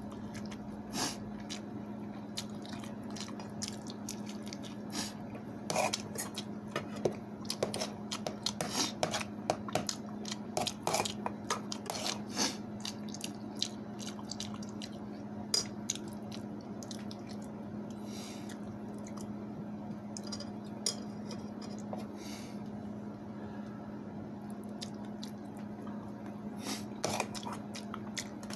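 Close-mic eating sounds: wet chewing and smacking of rice with grilled eggplant and egg, with many short clicks, busiest in the first half and sparser later. A steady low hum runs underneath.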